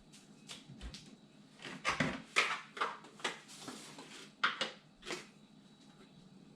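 Light kitchen clatter: a spoon and small sauce containers tapping and clinking against a bowl, about a dozen short irregular knocks.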